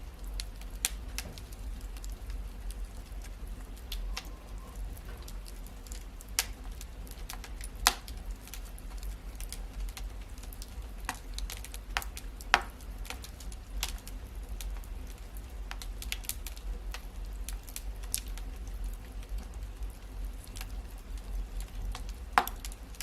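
Wood fire in a fireplace crackling, with irregular sharp pops over a low steady hum; a few pops stand out louder, about a third of the way in, around halfway, and near the end.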